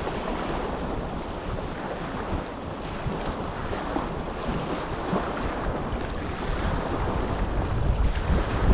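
Small waves washing on the Dead Sea shore, with wind buffeting the microphone as a low rumble that grows stronger near the end.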